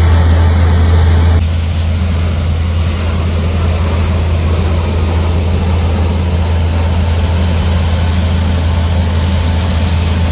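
A steady, loud low engine rumble that eases slightly about a second and a half in, then holds even.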